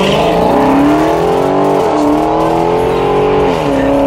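V8 engine accelerating hard at full throttle, its pitch climbing steadily and dropping sharply twice at upshifts.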